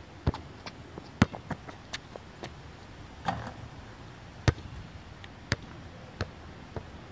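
Basketball bouncing on an outdoor court: a series of sharp, irregularly spaced thuds, the loudest about a second in and about four and a half seconds in.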